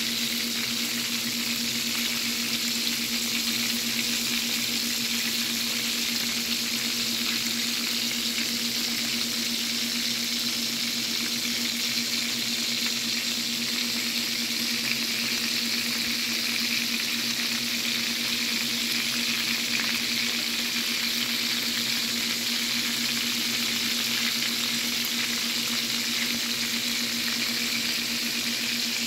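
Pork chops frying in hot oil in a skillet, a steady, even sizzle with no pauses, over a faint steady low hum.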